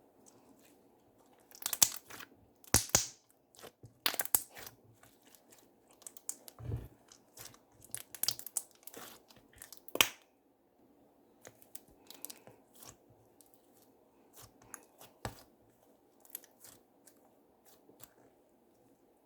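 Slime being handled: irregular crackling and popping clicks, loudest and densest in the first half, then sparser and fainter.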